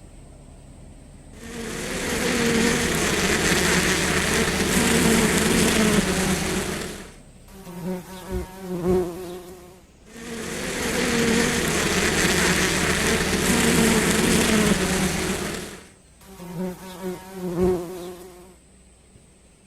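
Bees buzzing close to the microphone in two long loud stretches, each dropping to fainter, wavering buzzing before the next.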